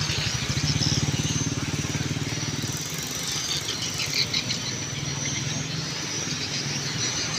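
Motorcycle engine running at low speed with an even, rapid throb, heard from on the bike.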